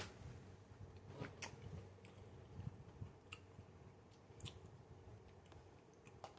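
Faint chewing of a person eating, with scattered small mouth clicks over a quiet low room hum.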